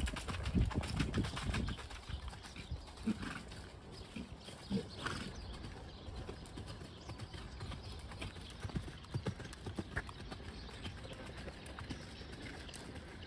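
A ridden horse's hoofbeats on an arena surface, heavier thuds in the first two seconds and softer after, with wind buffeting the microphone.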